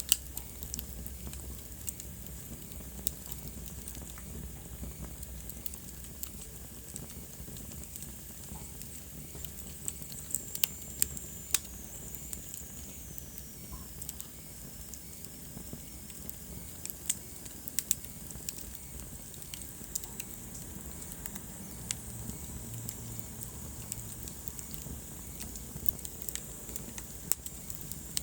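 Wood fire burning with a soft steady rush, crackling and popping at irregular intervals, with a few louder pops. A faint high whistle falls in pitch a little after a third of the way in.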